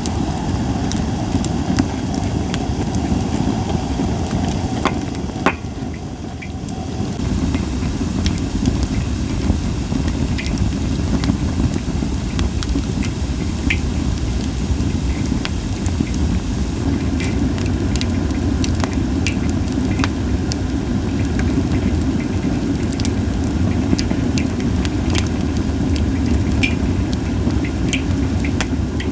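Japanese white pine wood burning in a campfire: scattered sharp crackles and pops over a steady low rush of burning, with little hissing.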